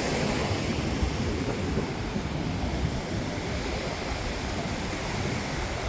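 Pacific surf washing onto the beach, a steady rushing noise, with wind buffeting the microphone.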